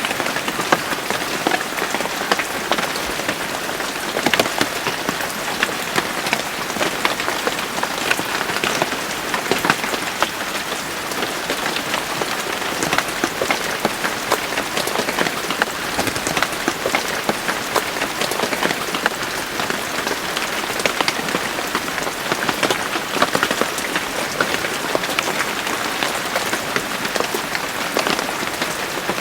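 Steady rain falling and pattering on a surface, a dense hiss of many individual drop hits.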